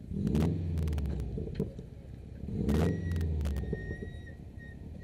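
Subaru rally car's engine idling at a standstill and blipped twice, the revs swelling and dropping each time, with a few sharp clicks between the blips.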